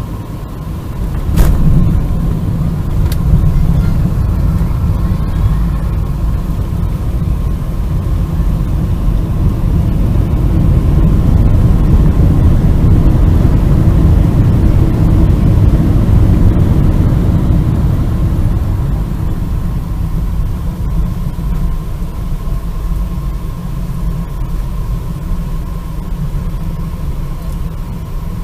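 Boeing 747-400 touching down with a sharp thump about a second in, then a loud low rumble that builds for about ten seconds and slowly fades as the jet rolls out on the runway.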